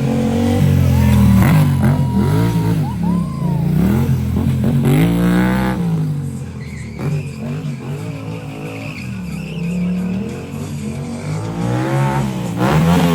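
Stunt motorcycle engine revving hard up and down again and again. Brief high-pitched tyre squeals come a little over a second in and again around the middle.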